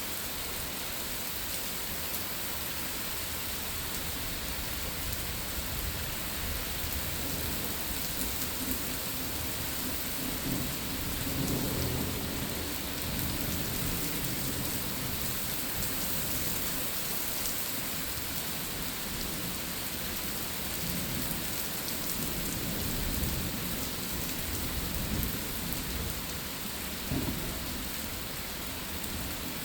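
Steady rain falling during a thunderstorm, with a low rumble of thunder swelling about ten seconds in and rolling on for several seconds, and a brief low thump near the end.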